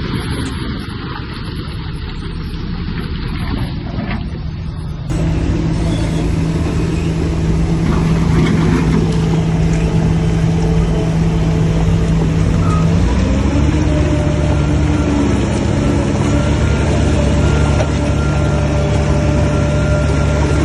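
Heavy diesel engine of earthmoving machinery running continuously with a steady low note. About five seconds in the sound abruptly becomes louder and fuller, and about two-thirds of the way through the engine note shifts.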